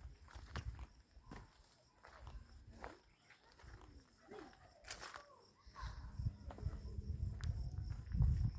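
Insects chirping steadily in the background, with scattered light clicks. A low rumble builds up in the last third.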